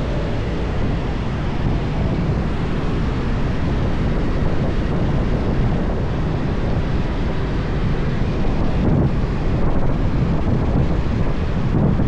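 A motorbike riding along a highway, with the engine and road noise under steady wind buffeting the microphone.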